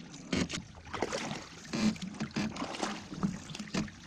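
Canoe paddles dipping and pulling through the water, with irregular splashes and water lapping at the hull.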